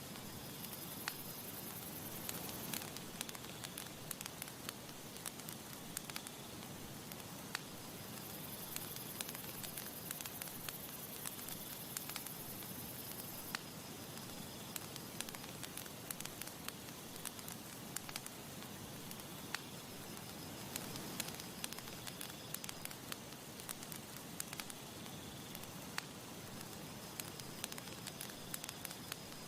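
Wood campfire crackling, with many small irregular pops and snaps over a steady soft hiss of burning.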